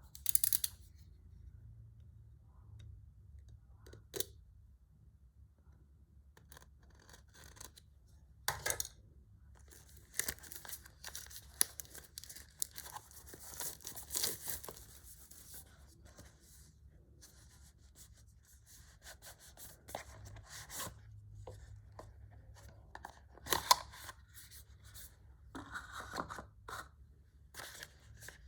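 Product packaging being opened and handled by hand: tearing, rustling and scraping, with scattered sharp clicks and bumps. There is a busier stretch of tearing and scraping around the middle.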